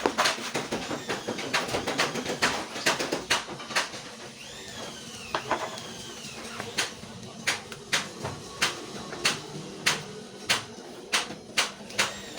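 Sharp knocks repeating about every 0.6 s from about halfway through, after irregular clicks and a couple of short rising-and-falling chirps.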